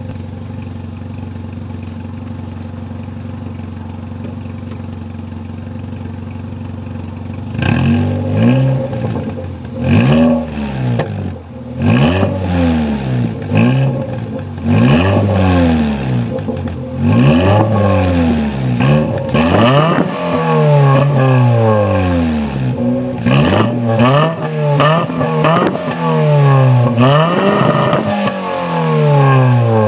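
1.0-litre VW Polo 6N engine heard through an almost open exhaust, its centre silencer removed and the rear box's baffles fallen out, idling steadily. About seven and a half seconds in it starts being revved again and again in quick blips, the pitch rising and falling with each.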